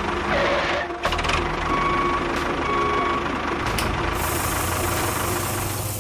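Small engine of a model tractor running with a steady, low rhythmic chug, with a faint whine and a few clicks over it.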